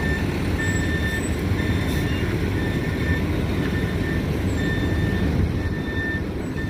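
A vehicle's backup alarm beeping steadily, about once a second, over the low rumble of an idling engine.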